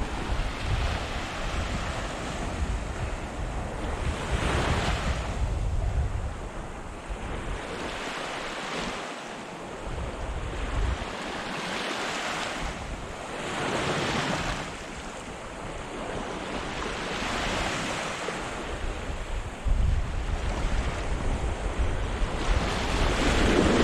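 Small surf washing onto the beach, swelling and fading every few seconds, with wind buffeting the microphone as a low rumble that drops away briefly in the middle.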